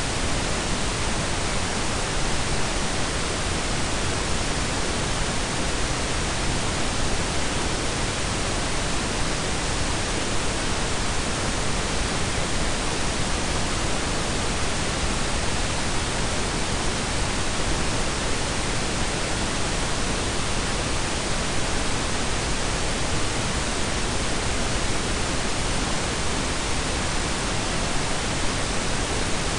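Steady blend of synthetic pink and brown noise: an even, unchanging hiss with a deep rumble underneath.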